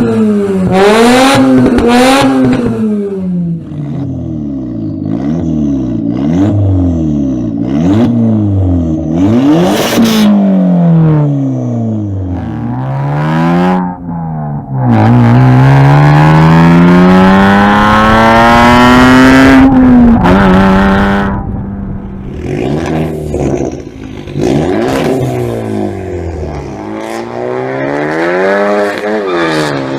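Straight-piped car engine revving hard: quick throttle blips with the pitch jumping up and falling back, then a long full-throttle pull about halfway through that climbs steadily for about five seconds before dropping off, and more revving near the end.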